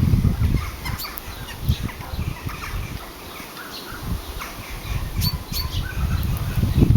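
Birds chirping and calling in short, scattered notes, over a low rumbling noise that fades in the middle and grows again near the end.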